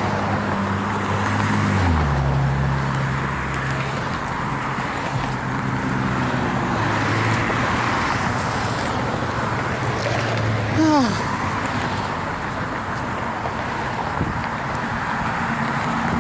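Street traffic: passing cars and other vehicles, with steady engine hum shifting in pitch as vehicles move. Partway through there is one brief squeal that falls in pitch.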